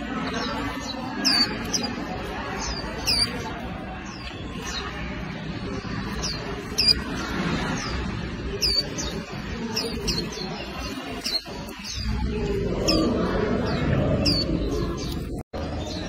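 Warbling white-eyes calling: short high chirps, each sliding downward in pitch, about one a second, over a low background noise.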